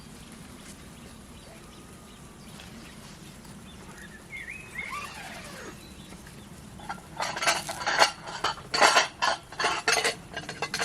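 A quick, irregular run of sharp clinks and clatters of hard objects knocking together, starting about seven seconds in. A short chirp sounds a few seconds before it.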